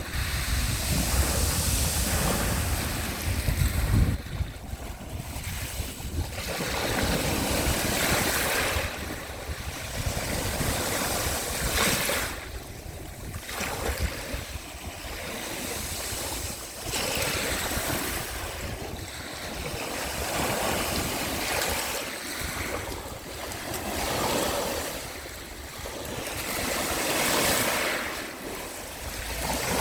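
Sea of Azov waves washing ashore, the rush of surf swelling and fading every few seconds, with some low wind rumble on the microphone in the first few seconds.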